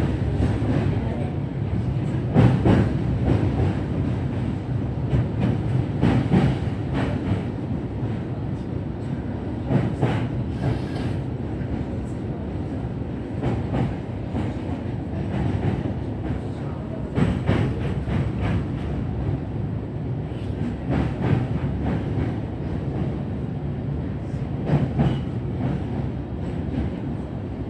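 Electric commuter train heard from inside the car, running slowly under a strong-wind speed restriction: a steady low rumble, with the wheels clacking over rail joints every second to few seconds.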